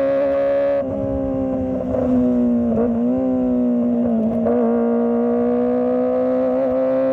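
Kawasaki ZX-25R's 249 cc inline-four engine running at high revs under riding load, a steady high-pitched howl. The pitch dips and wavers briefly with small throttle changes, then rises gently again.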